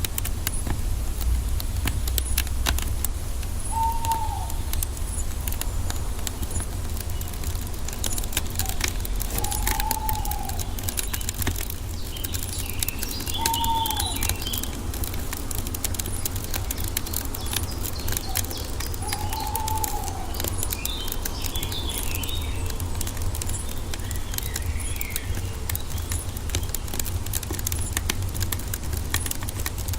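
Wood fire crackling with many irregular pops over a steady low rumble. A bird calls four times with short notes that rise and fall, and fainter chirps come from other birds.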